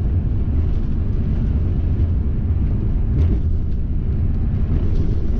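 Steady low rumble of a van driving, heard from inside the cab: engine and road noise.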